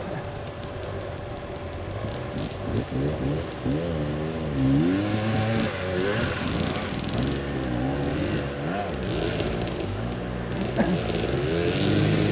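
Dirt bike engine revving up and down with the throttle, its pitch rising and falling every second or two, with scattered clicks and knocks over it.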